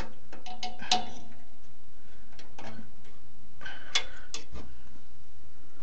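Scattered light clicks and small metal taps as a furnace's hot surface igniter is worked loose and pulled out of its mount, with two sharper clicks about a second in and about four seconds in. The igniter is being removed because it has failed.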